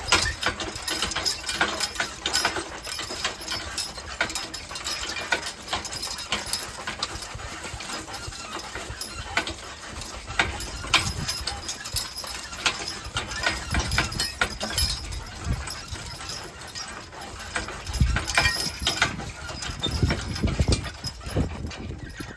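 Draft horses' hooves clopping in harness, an irregular run of knocks, with a low rumble in the last few seconds.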